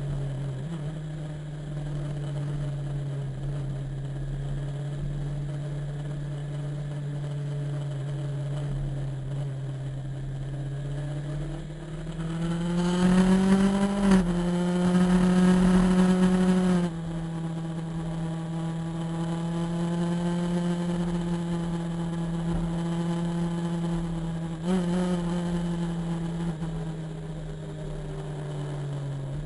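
Motorcycle engine running at steady cruising revs; about twelve seconds in the revs climb, dip briefly with a gear change, and hold higher and louder for a few seconds before easing back, with another small shift near the end.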